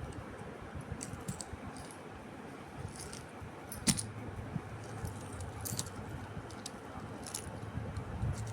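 Light metallic clinks and jingles at irregular moments, like a small swing's chain and fittings in a parrot cage being jostled, with one sharper click about four seconds in, over a low steady hum.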